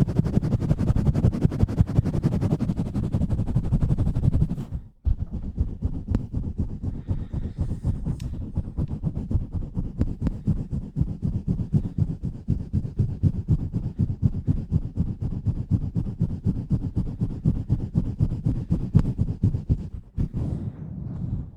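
Hands rubbing and pumping rapidly against a microphone's grille, several muffled, booming strokes a second. The strokes break off briefly about five seconds in and again near the end.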